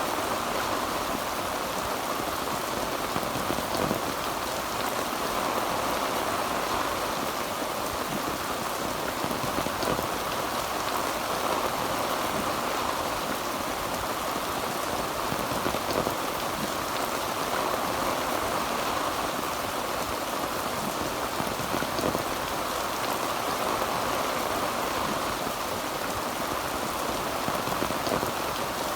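Heavy rain drumming steadily on a tin roof: a dense, even hiss of drops with faint scattered louder ticks.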